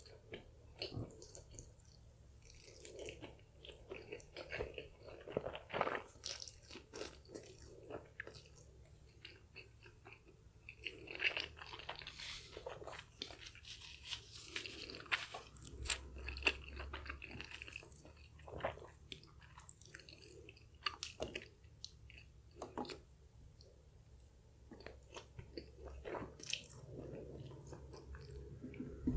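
Close-miked chewing of a mouthful of chewy, sticky black bean noodles: many short, irregular wet clicks and smacks of the mouth and lips.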